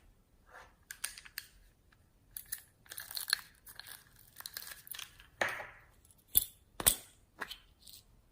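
Slime being squished, stretched and folded by hand, giving irregular sticky crackles and pops, with two sharp snaps about six and a half and seven seconds in.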